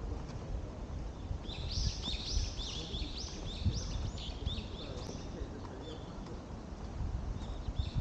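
A songbird singing a quick run of repeated chirping notes for a few seconds, with a few more notes near the end. Underneath, a steady low rumble with soft thuds of footsteps on the path.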